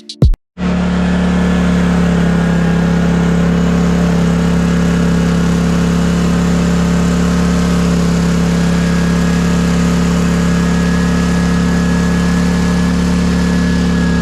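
Lawn mower engine running steadily at a constant speed, a loud, even hum with no change in pitch. It starts abruptly about half a second in.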